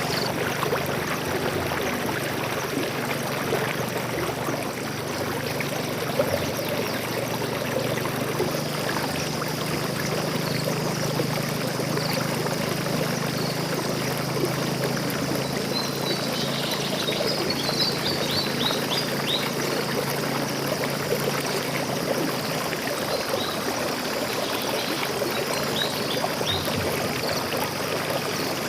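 Flowing stream water pouring and splashing steadily, with a cluster of short, high bird chirps a little past the middle and a few more near the end.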